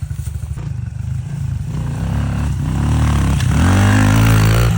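Pit bike engine running at low revs, then revving up from about two seconds in and pulling hard, loudest near the end.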